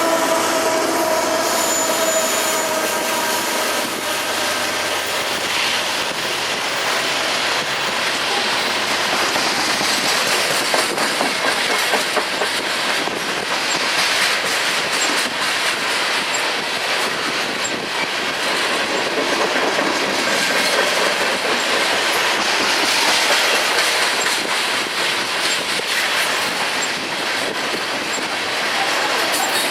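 Freight train cars rolling past at close range: a steady clatter of steel wheels on the rails. A few high tones, likely wheel squeal, fade out in the first few seconds.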